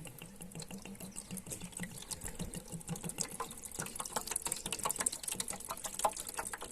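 Water being poured into the reservoir tray of a wet tile cutter, a steady irregular splashing and trickling as the tray fills.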